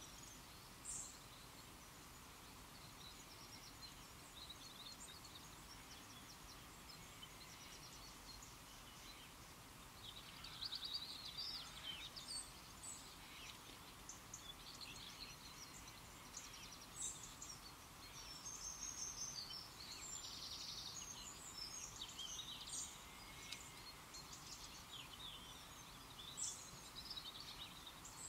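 Faint riverside ambience: small birds chirping and singing in short high calls over a steady low background hiss, the birdsong getting busier about a third of the way in.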